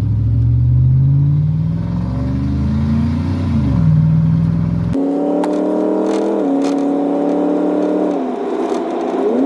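Straight-piped 5.3-litre V8 of a 1999 Chevrolet Silverado accelerating under load: its note rises steadily for about three and a half seconds, then drops as it shifts up. After an abrupt change about five seconds in, the engine note sits higher and falls back in two steps.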